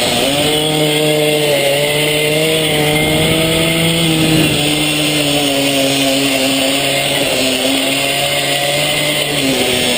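Small minimoto/pitbike engine running hard on track, its pitch rising and falling with the throttle and dipping sharply near the start and again near the end.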